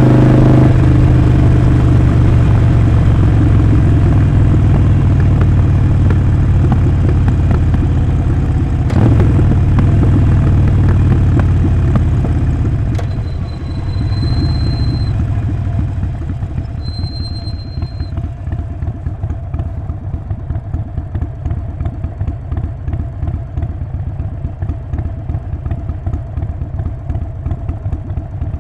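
Harley-Davidson Sportster 48's air-cooled 1200 cc V-twin through a Vance & Hines slip-on exhaust, running steadily under power, then easing off about halfway through and settling into a lumpy, pulsing idle.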